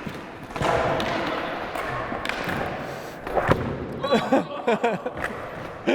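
A person crashing into a large cardboard shipping box: a rush of scuffling noise, then a heavy thud about three and a half seconds in, followed by shouting and laughter.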